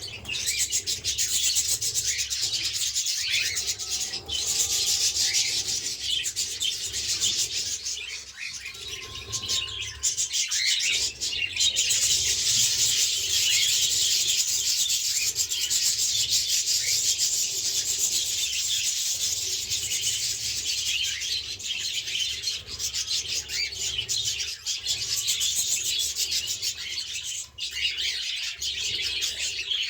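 A flock of pet parrots, budgerigars and cockatiels, chattering continuously in a dense, fast, scratchy warble, with a few short whistled notes and glides mixed in.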